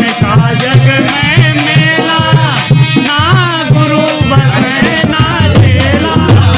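Live bhajan music: a melody gliding up and down in pitch over a regular low drum beat, with a shaker-like rattle.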